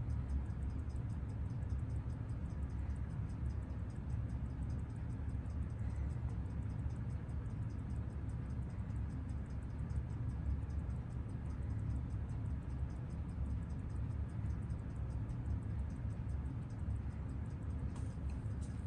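Seiko 6139 automatic chronograph movement ticking steadily at its 21,600-beat rate, about six faint, sharp ticks a second, over a steady low hum. The movement has just been given a rough regulation and runs with a hair of beat error.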